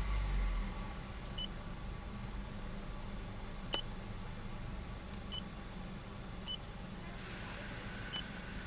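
Nissan X-Trail engine idling steadily, a low even hum. Several short high beeps sound at irregular intervals, with a sharp click about halfway.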